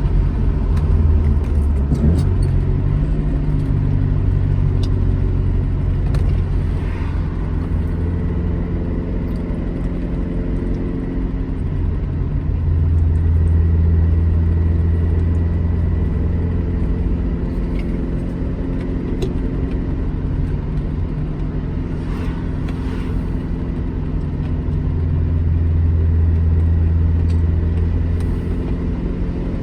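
Alfa Romeo GT Junior's twin-cam four-cylinder engine running as the car is driven, its pitch shifting a couple of times and growing louder twice under acceleration.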